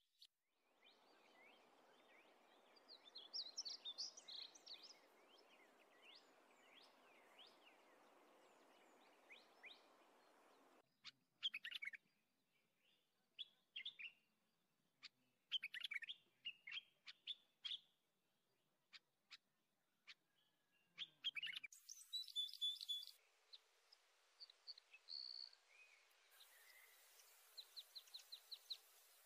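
Small birds chirping and twittering: faint, short, high calls and quick trills in scattered runs over a light background hiss.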